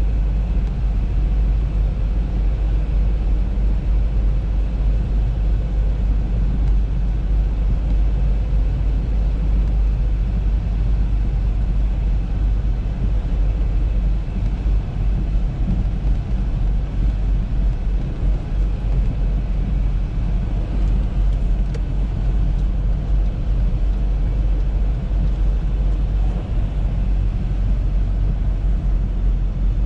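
Audi A3 on the move: a steady low rumble of engine and tyres with a road hiss over it, unchanging throughout.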